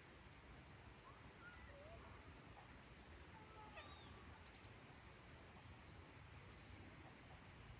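Faint countryside evening ambience: scattered distant bird chirps and whistles over a steady high insect drone and a low rumble. One brief, sharp high chirp comes about six seconds in.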